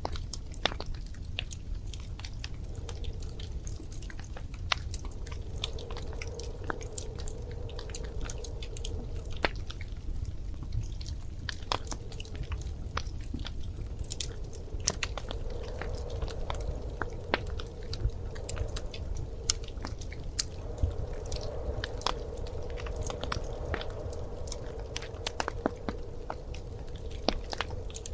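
Wood fire crackling in a fireplace: irregular sharp pops and snaps over a low steady rumble, with a soft hum that comes and goes.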